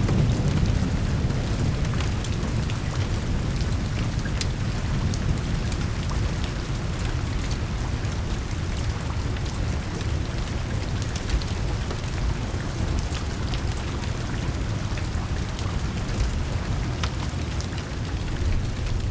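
Steady rain with a low rumble of thunder that eases off over the first few seconds, and scattered sharp ticks of drops.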